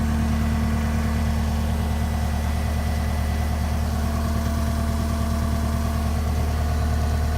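Caterpillar 242D skid steer's diesel engine idling steadily just after a cold start, warming up.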